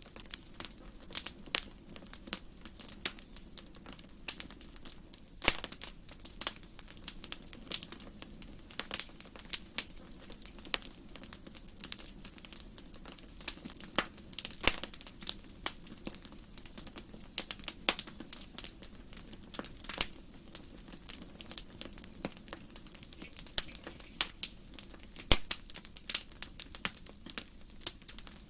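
Wood fire in a fireplace crackling, with irregular sharp pops and snaps over a low, steady rush of the flames.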